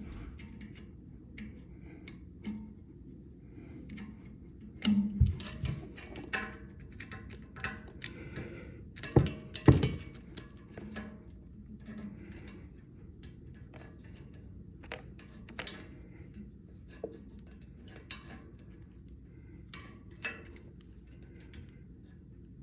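Handling noise: scattered clicks, light knocks and rubbing, with louder knocks about five seconds in and again around nine to ten seconds.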